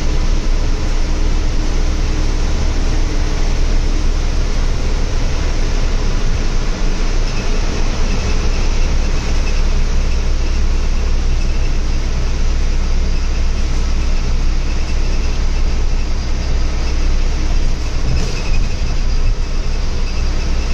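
Heavy monsoon rain pouring steadily, a dense constant hiss with a low rumble underneath.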